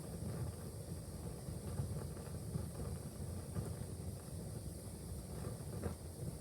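Wood fire burning in a fireplace: a steady low rumble of the flames with a few faint crackles and pops, one a little sharper near the end.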